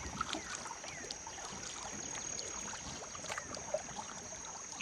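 Swift river current trickling and lapping around a kayak, with many small scattered splashes and drips.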